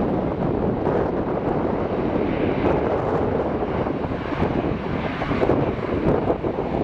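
Airliner approaching to land, its jet engines a steady rushing noise, mixed with wind buffeting the microphone.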